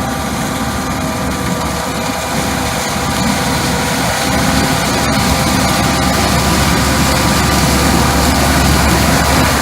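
Farm harvesting machinery's engine running steadily, growing slightly louder over the first few seconds.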